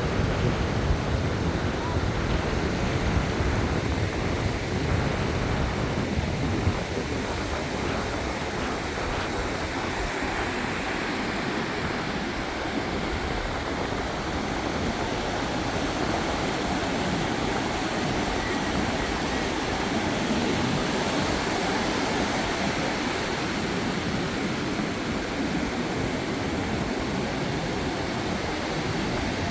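Surf washing onto a sandy beach, a steady rush of small waves, with wind rumbling on the microphone for the first several seconds.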